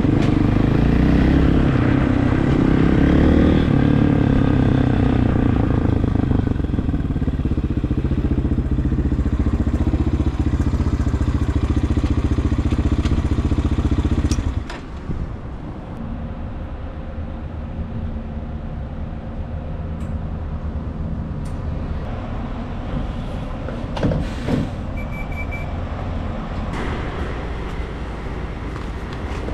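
Regulmoto TE enduro motorcycle engine running steadily while under way. About halfway through, the sound drops suddenly to a quieter, steady running level, with a few light clicks near the end.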